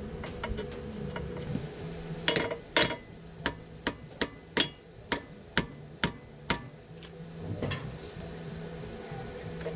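A hammer striking metal about ten times, roughly two blows a second, with a short metallic ring after each; the blows come in the middle of the stretch and then stop.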